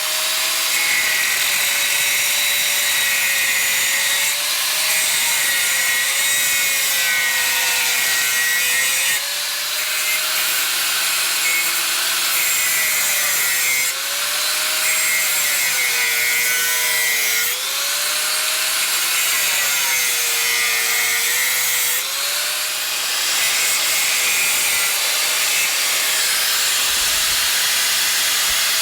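Angle grinder with a cut-off disc cutting through a steel engine-mount bracket on a truck chassis, running continuously with a harsh hiss. The motor's whine dips and recovers several times as the disc is pushed into the cut.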